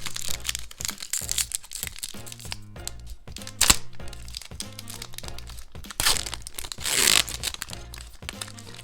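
Crinkling and tearing of trading-card booster-pack wrappers and box packaging, in two spells near the start and near the end, with one sharp crack about three and a half seconds in, over steady background music.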